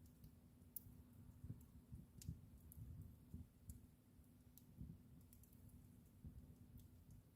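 Wood fire crackling faintly, with scattered, irregular small snaps and pops.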